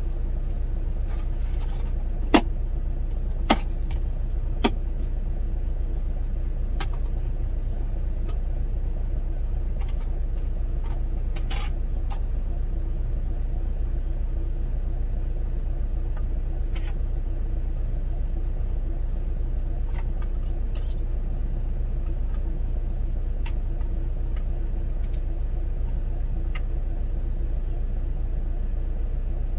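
Steady low rumble of an idling truck engine heard inside the cab. A few sharp clicks come a few seconds in.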